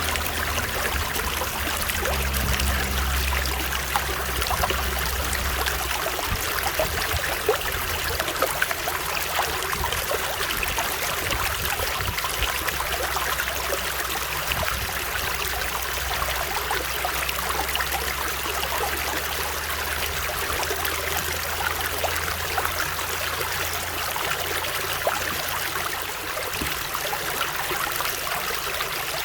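A stream running steadily: an even rush of water with many small splashes in it, over a low rumble that fades near the end.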